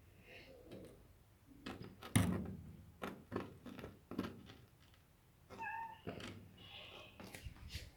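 A domestic cat meows twice, briefly, in the second half, among a series of knocks and thumps, the loudest about two seconds in.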